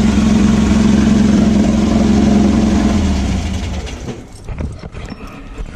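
VW air-cooled flat-four engine of a beach buggy idling evenly with no popping, its blocked idle jet now cleared. About three and a half seconds in it dies away, leaving a few light clicks.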